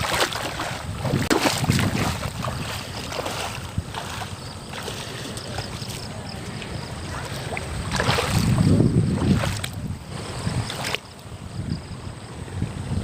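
River water splashing and sloshing around people wading, with wind buffeting the microphone; a stronger low rumble of wind comes about eight seconds in.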